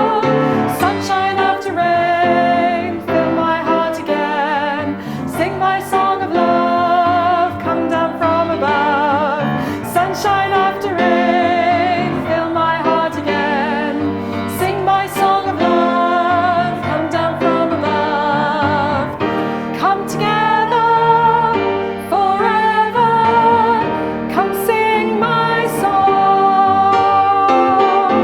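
Music: a song, with a voice singing held notes with vibrato over instrumental accompaniment.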